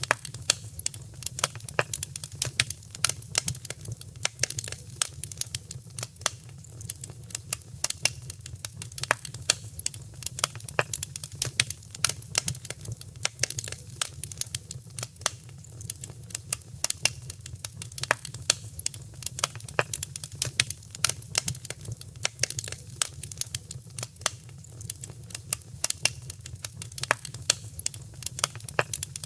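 Fire crackling in a fireplace: dense, irregular snaps and pops, several a second, over a low steady rumble.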